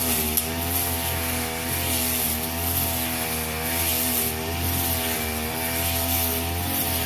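Brush cutter engine running steadily while cutting grass, its pitch wavering slightly up and down.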